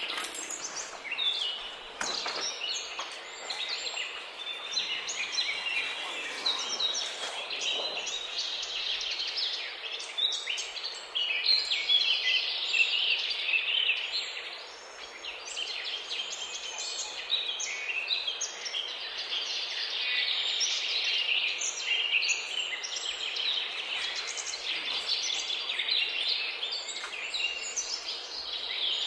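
A dense chorus of many birds giving short, high chirps and calls over one another.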